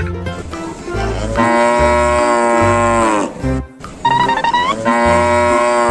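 Cow mooing twice, each moo long and drawn out and dropping in pitch at the end, with a short wavering call between them. Background music with a steady bass beat plays underneath.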